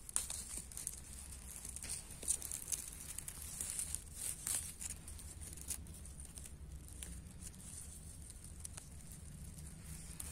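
Faint, scattered rustling and crackling of dry vegetation being handled or trodden, with a few sharper snaps.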